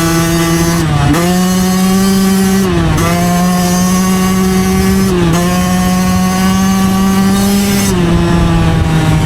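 2009 Yamaha YZ125 two-stroke dirt bike engine running under way, its high buzzing note briefly dipping and settling at a new pitch about four times as the throttle and gears change.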